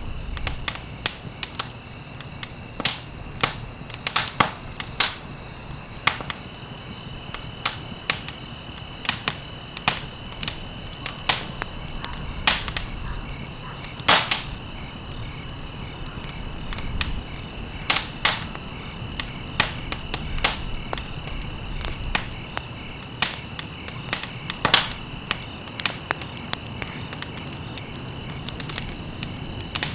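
Wood fire in a fireplace crackling, with irregular sharp pops several times a second over a low, steady rush. A faint steady high-pitched tone runs underneath.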